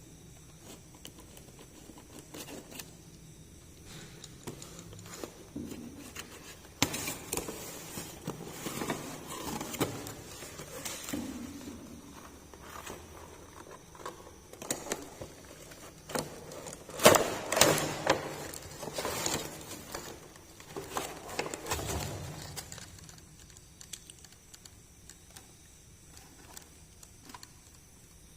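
Hands handling small plastic miniature toys and their packaging: clicks, taps and rustling. There are only a few light taps at first, then a dense run of clicks and crinkling with the loudest clicks a little past the middle, then a few taps again.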